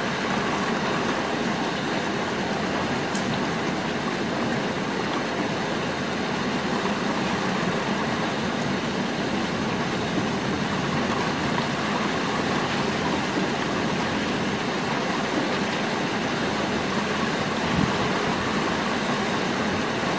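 Steady rain falling on the rooftops outside an open window, an even hiss without thunder.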